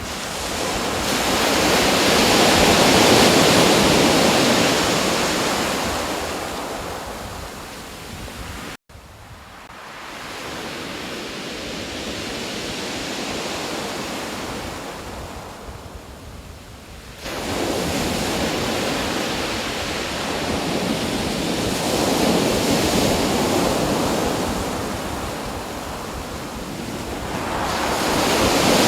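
Ocean waves washing in and drawing back in slow surges that swell and fade every few seconds. The sound drops out for an instant about nine seconds in and jumps back up abruptly about seventeen seconds in.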